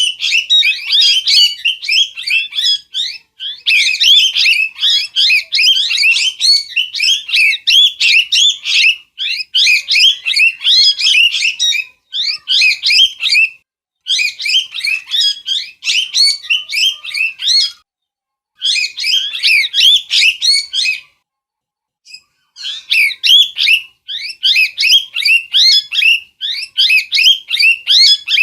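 Parrot calling in fast runs of short, shrill chirps and squawks, several notes a second, in bouts of a few seconds broken by short pauses.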